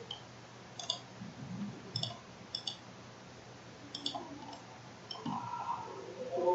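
Computer mouse clicking: a handful of single sharp clicks, with a quick double click about two and a half seconds in.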